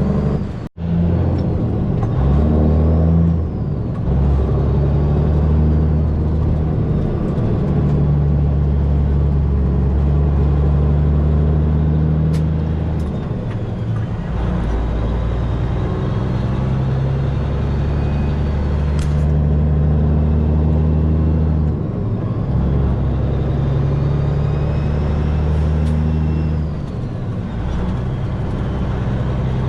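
Semi truck's diesel engine running while driving, heard from the cab, its low drone holding steady and then stepping to a new pitch every few seconds. There is a brief break in the sound about a second in.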